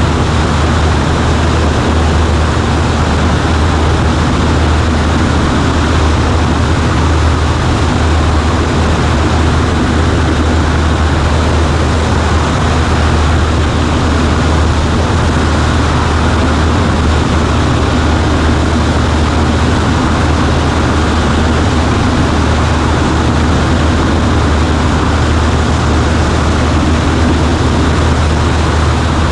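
Cessna 140A light aircraft's piston engine and propeller running steadily, a constant low drone with a hiss of air noise over it.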